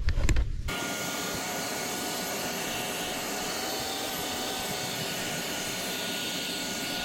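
Vacuum cleaner running steadily with an even rushing hiss and a faint whine. It comes in suddenly about a second in, after a short clatter.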